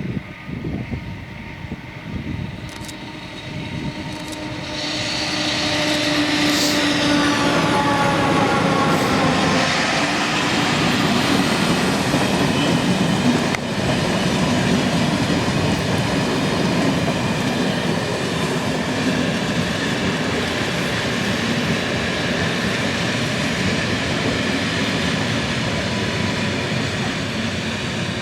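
A train passing close by: a whine slides down in pitch as it comes past, then a long, steady rumble and rattle of wheels on rails as the cars go by.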